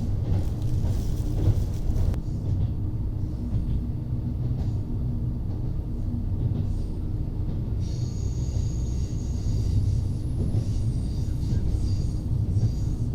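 Interior of a diesel local railcar running along the line: a steady low rumble of engine and wheels on track. From about eight seconds in, a faint high whine joins it.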